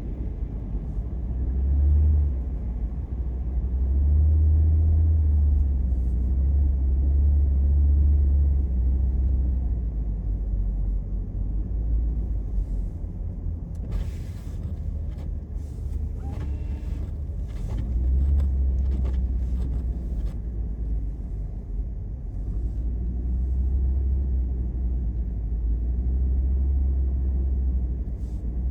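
Car driving: a low, steady rumble of engine and road noise that swells and eases, with a cluster of short clicks and ticks about halfway through.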